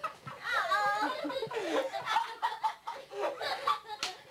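A group of people laughing and snickering, several voices overlapping.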